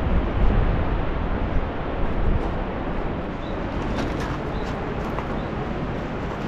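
Wind buffeting the microphone in gusts, a low rumbling rush that is strongest in the first couple of seconds, with a few faint ticks over it.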